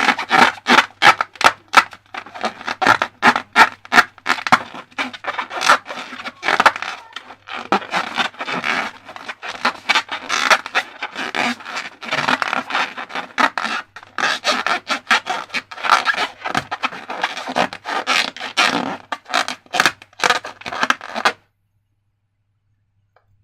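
Slime being worked by hand or tool: a dense, irregular run of sticky crackles, clicks and squelches that cuts off abruptly near the end.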